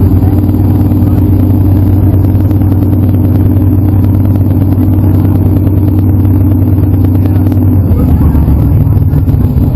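A motor vehicle's engine running steadily close by. Its note changes about eight seconds in.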